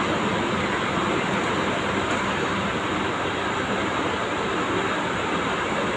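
Scania K410 coach running, a steady even rumble and hiss that neither rises nor falls.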